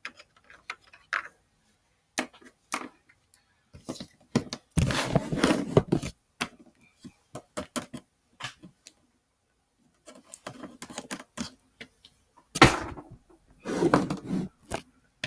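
Small plastic toy figures and playset pieces being handled and set down: scattered light clicks and knocks, with two longer stretches of scraping and rustling about five and thirteen seconds in.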